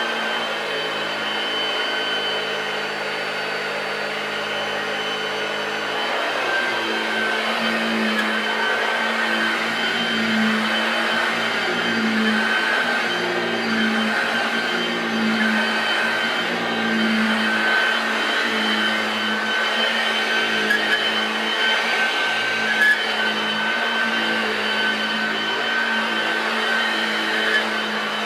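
Hoover Junior (Model 1348) upright vacuum cleaner running steadily, its motor giving a constant whine. From about six seconds in, its lower hum swells and fades every second or two.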